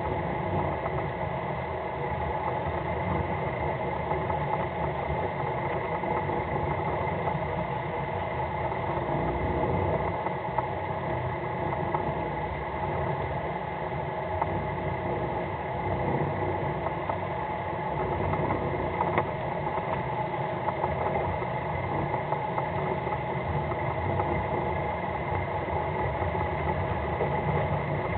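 A fishing boat's engine running steadily at low revs, a continuous hum with a few faint knocks.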